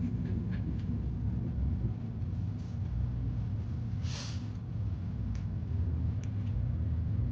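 Steady low rumble of a car cabin while driving: engine and road noise. A short hiss about four seconds in, with a few faint ticks.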